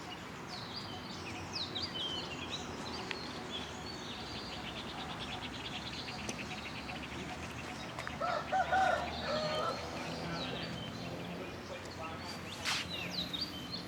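Birds chirping, with a fast trill partway through, and a rooster crowing once about eight seconds in, the loudest sound here.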